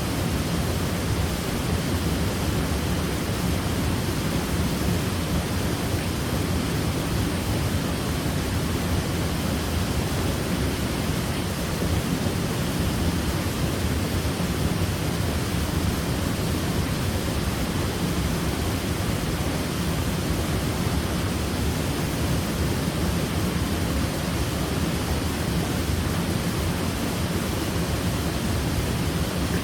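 Waterfall: water pouring steadily in an even, deep rush that holds the same level throughout.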